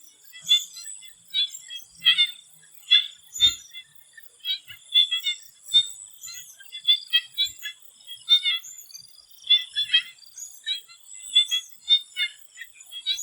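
Swamp frogs calling: a chorus of many short, repeated calls, several a second, with a faint steady high insect drone behind them.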